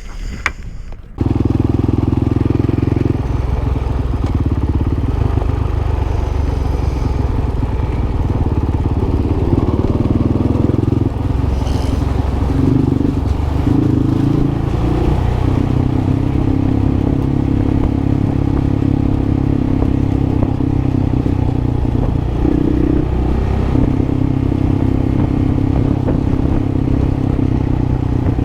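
Dual-sport motorcycle engine running steadily while riding, coming in suddenly about a second in, with small shifts in engine note now and then.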